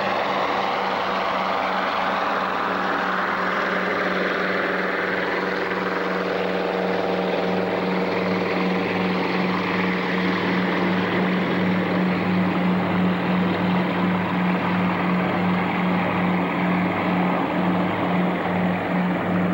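The twin Pratt & Whitney R-1830 radial piston engines of a PBY-5A Canso water bomber running steadily: a low propeller drone with a regular pulsing beat.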